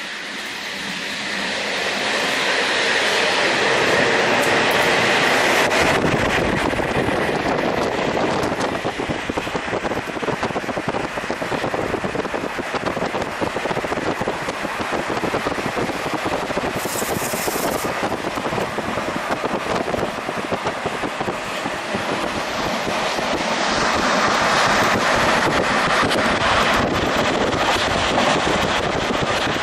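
Passenger train running at speed, heard from inside the carriage by an open window: a steady rush of wind across the microphone over the clatter of wheels on the rails. It grows louder over the first few seconds.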